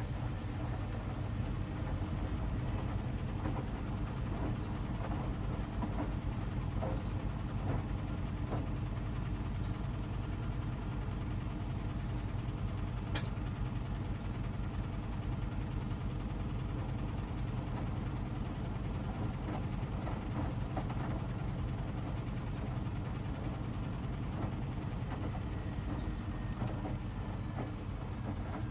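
Hoover DXOA610AHFN-80 front-loading washing machine in the wash phase of a 60°C Mixed programme: a steady motor hum with the drum turning and faint clicks and splashes of the wet load. A faint whine drops in pitch near the end.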